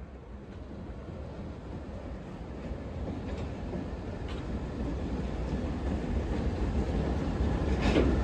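Approaching train: a low rumble that grows steadily louder as it nears, with a few faint clicks and no horn.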